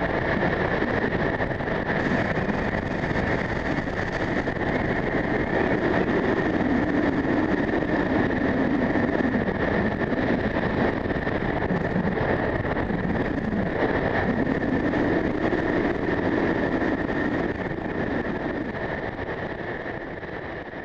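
Strong wind rushing and buffeting the microphone in slow swells, with a steady high whistle running through it; the sound fades away near the end.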